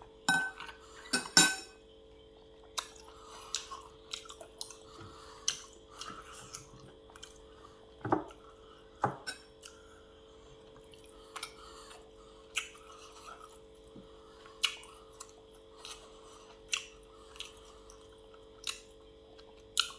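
Eating at a meal: dishes and cutlery clinking in short, irregular clicks, a few louder knocks among them, with chewing in between, over a faint steady hum.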